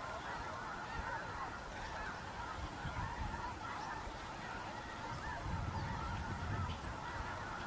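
A flock of geese honking, a continuous chorus of many overlapping calls.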